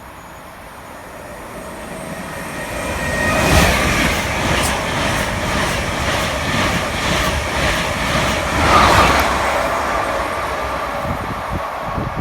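A train passing through the station: a rising rumble, then a repeated clatter of wheels over the rails for several seconds, loudest about four seconds in and again near nine seconds, before it eases off.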